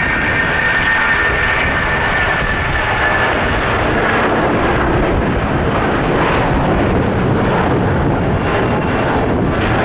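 Boeing 757-200 jet engines at takeoff power: a loud, steady noise with a high whine that fades over the first few seconds.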